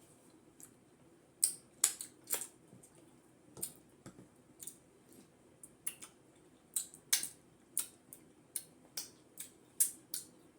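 Eating sounds from a person chewing fufu with peanut butter soup: short, wet mouth smacks and clicks at an irregular pace, one to three a second.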